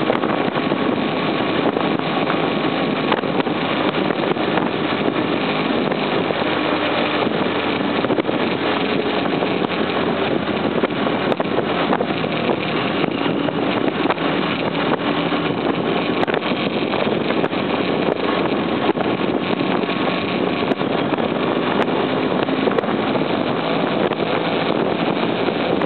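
Motorcycle engine running steadily while riding, mixed with wind rushing over the mounted camera's microphone.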